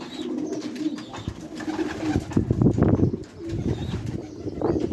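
Domestic pigeons cooing in a loft, low repeated coos throughout. A louder rustling scuffle breaks in a little past halfway, with a shorter one near the end.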